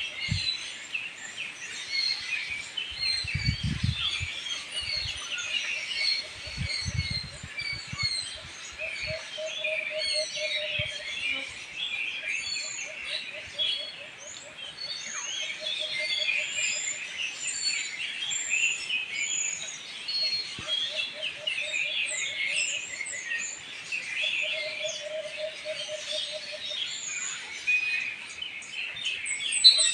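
Many birds chirping at once in a dense, continuous chorus of short high calls. A lower pulsing trill comes back every few seconds, and a few low thumps sound in the first eight seconds.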